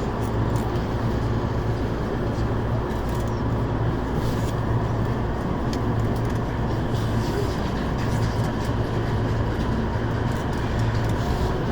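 Rinkai Line 71-000 series electric train running, a steady low rumble with no sharp events.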